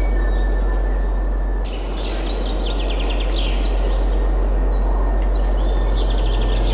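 Several songbirds chirping and singing fast trills over a steady rush of wind with a low rumble. The birdsong grows busier after an abrupt shift about two seconds in.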